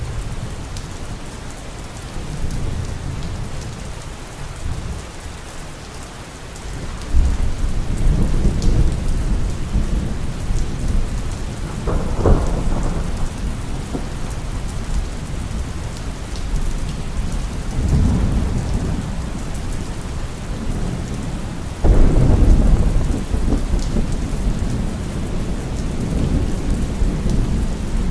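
Thunderstorm: steady heavy rain with rolling thunder. Deep rumbles swell in several times, with a sharper crack about twelve seconds in and a sudden loud peal about twenty-two seconds in.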